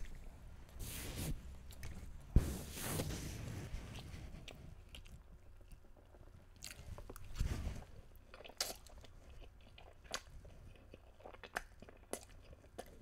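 Close-miked chewing and wet mouth sounds of a person eating Cajun chicken pasta, with scattered short clicks and one sharp click about two and a half seconds in.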